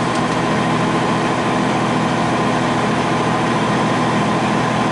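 Semi truck's diesel engine pulling steadily up a mountain grade under a load of about 35 tons, a constant drone with a steady whine on top, heard from inside the cab.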